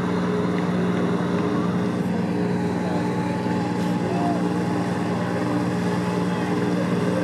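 Motorboat engine running at a steady speed, a constant low drone that does not change in pitch or level.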